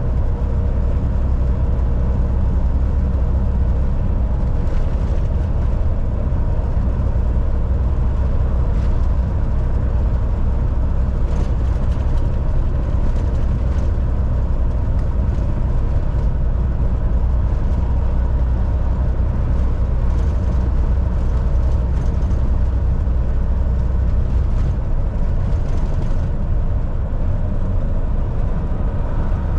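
Volvo VNL 760 semi truck's diesel engine running at a steady cruise with road noise: a constant low drone with steady engine tones on top.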